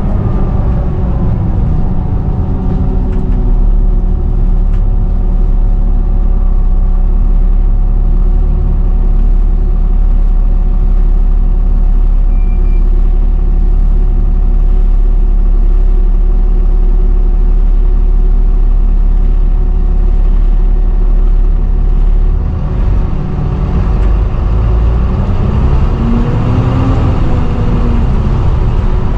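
Volvo B7TL double-decker bus running, its engine drone carrying a loud, steady whine: the 'hoover' sound these buses are known for. About 22 seconds in the sound dips briefly and shifts, and near the end a tone rises and falls in pitch.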